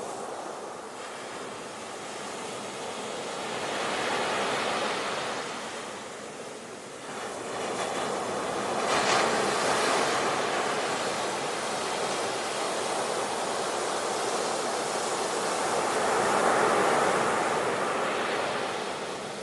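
Ocean surf, a rushing wash of waves that swells and eases in about three slow surges.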